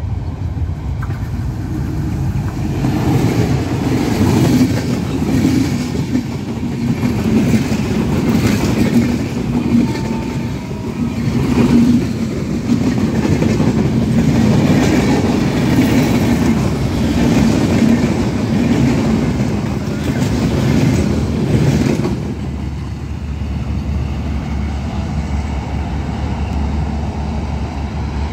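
Broad gauge intercity express passing close at speed: the diesel locomotive's rumble, then the long run of coaches with wheels clattering over the rail joints. About 22 seconds in the sound drops abruptly to a lower, steadier rumble as the train draws away.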